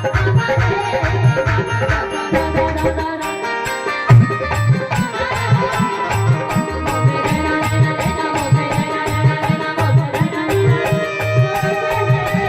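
Instrumental passage of Indian devotional folk music: a dholak keeps up a fast, steady beat of deep strokes and sharp ticks under a sustained melody line.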